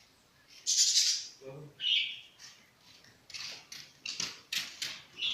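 Lovebird calling: a loud, harsh screech about a second in and a shorter one near two seconds, then a rapid run of short, shrill chirps.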